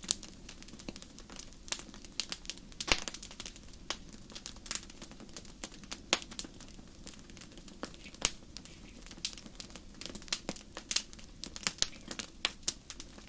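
Wood fire crackling: irregular sharp pops and snaps, a few stronger ones standing out, over a steady low hiss.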